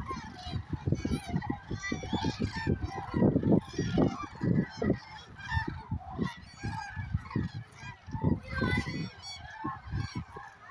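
A large flock of common cranes calling, many loud trumpeting calls overlapping continuously as the birds fly in, over low rumbling thumps.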